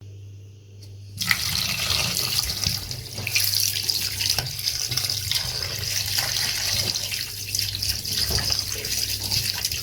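Tap water running into a sink with splashing, starting about a second in over a low steady hum.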